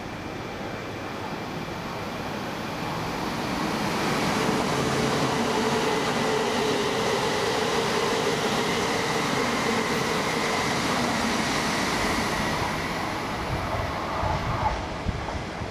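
E2 series Shinkansen train passing through a station at speed: a rushing of wheels and air that swells over the first few seconds, holds steady, then fades. A few low thumps near the end.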